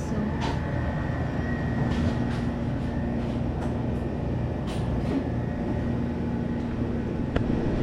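Steady low rumble of an idling car, with a steady hum and a few light clicks.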